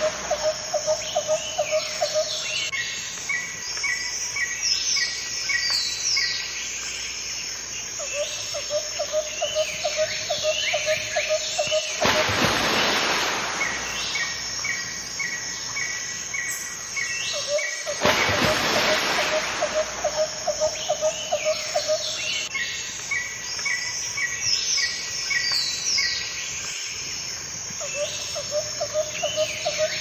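Outdoor birdsong: many overlapping chirps and calls, with rows of evenly spaced chirps and a fast low trill that comes back about every ten seconds. A rush of noise sweeps through twice, about twelve and eighteen seconds in.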